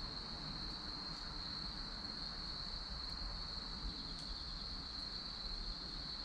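Crickets trilling in one steady, high, unbroken tone, while a wood bonfire gives a few faint crackles and pops.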